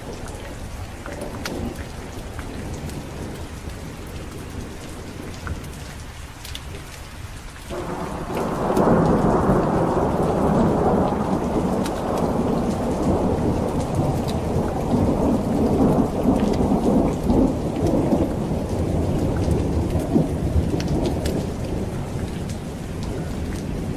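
Steady rain with scattered drop ticks, and a long roll of thunder that breaks in suddenly about eight seconds in and rumbles on for over ten seconds before easing.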